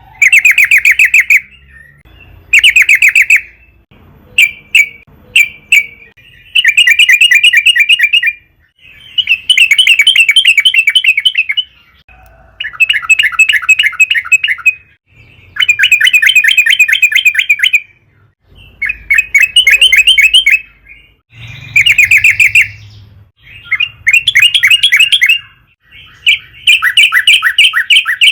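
Sooty-headed bulbul (trucukan) singing loudly in repeated bursts of fast chattering notes. There are about a dozen bursts, most one to three seconds long, with short pauses between them and a few single short notes about four to five seconds in.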